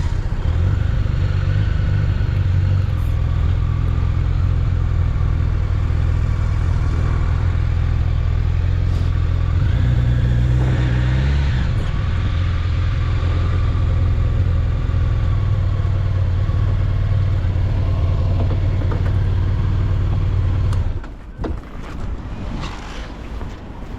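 Honda CBR1100XX Blackbird motorcycle's inline-four engine running steadily under way, its revs rising and falling briefly about eleven seconds in. Near the end the engine sound drops away sharply.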